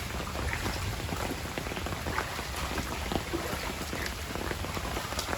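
Steady rain falling during a flood-level downpour, with many drops pattering on surfaces close by.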